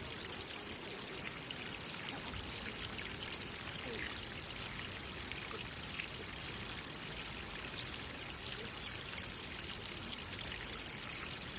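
Water flowing and trickling steadily, a small stream pouring into a pond.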